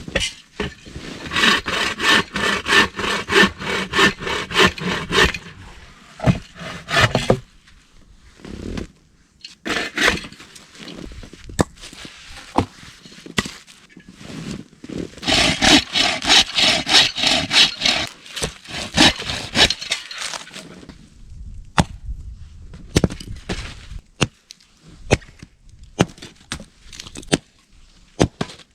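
Hand saw cutting through dry wood in two spells of quick, even strokes, followed by scattered sharp snaps of twigs or branches being broken.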